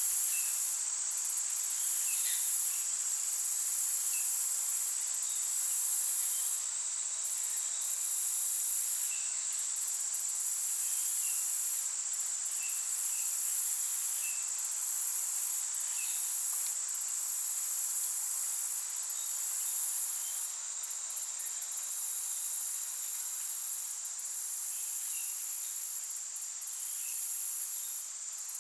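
High-pitched insect chorus trilling continuously, with short irregular breaks, over a faint steady hiss, with scattered faint short chirps.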